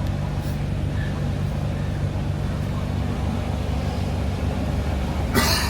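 Semi truck's diesel engine idling, a steady low hum heard inside the cab, with a short hiss near the end.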